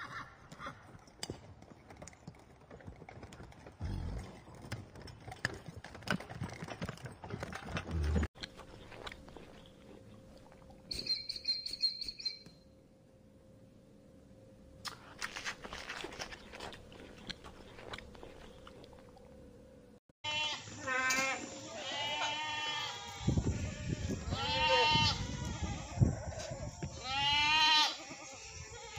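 A goat bleating several times in the last third, loud wavering calls one after another. Before that there are only quieter outdoor sounds with scattered small knocks.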